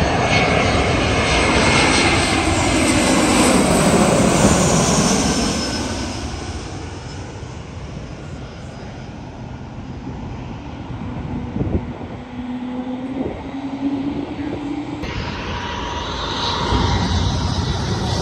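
Airliner passing low overhead, its engine noise swelling to a peak about four seconds in with a sweeping shift in tone, then fading away. After an abrupt change near the end, another plane's noise rises.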